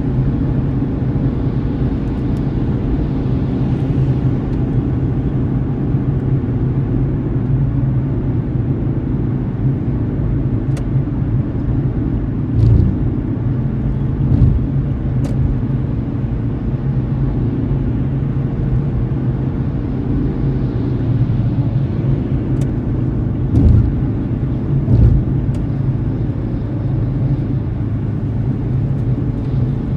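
Steady low rumble of a car's tyres and engine while driving, heard from inside the car through a dashcam. A few short thumps stand out a little above the rumble.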